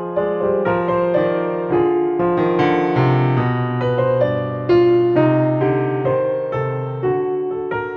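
Soft, slow piano music: a gentle melody of notes that strike and fade over held bass notes.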